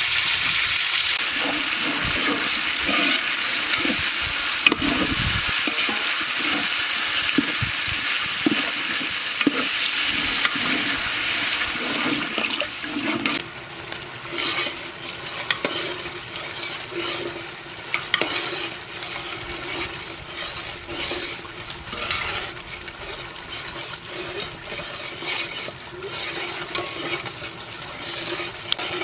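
Chicken curry sizzling and frying in a large pot as it is stirred. A dense, steady sizzle for the first half gives way, about halfway through, to a quieter sizzle with scattered crackles.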